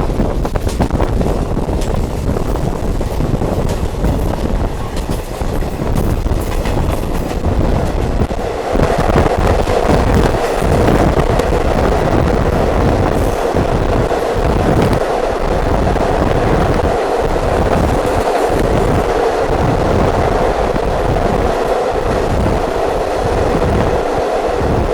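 Diesel multiple unit (DMU) train running along the track, a steady rumble of engine and wheels. About eight seconds in the sound changes and a louder steady hum sets in.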